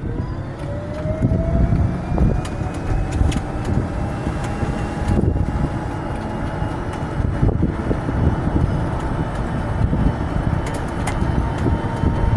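Stock electric drive motor of a 2006 Club Car DS golf cart whining as the cart accelerates up a slight hill. The whine rises in pitch over the first few seconds, then holds steady as the cart reaches about 16 mph. Underneath runs a low rumble from the cart rolling on the road.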